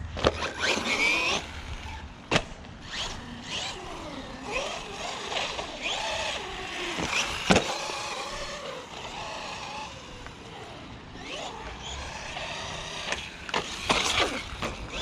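Bezgar HM124 1/12-scale brushless RC car being driven: its electric motor whine rises and falls with the throttle over tyre and ground noise, with a few sharp knocks, the loudest about halfway through.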